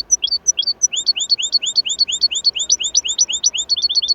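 A small songbird singing a run of high, repeated chirps, about four to five a second, quickening into a faster trill near the end.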